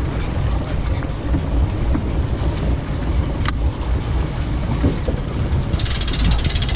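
Small boat's motor running with a low, steady rumble and wind on the microphone. A rapid clicking starts near the end.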